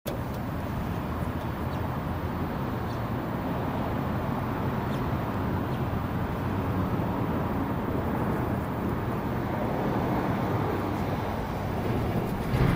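Steady low rumbling noise with no distinct events, a little louder near the end.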